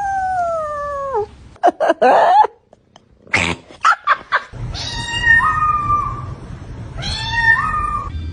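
Domestic cats meowing. A long meow falls in pitch, then a run of short sharp sounds follows. After that come two drawn-out meows that each jump up in pitch partway through.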